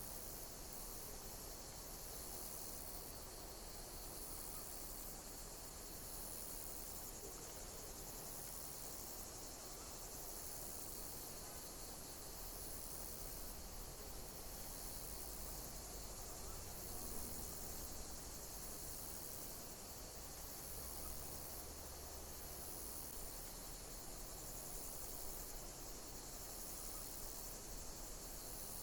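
Insects chirping: a steady, high, shrill chorus, with one high call repeating evenly about every two seconds.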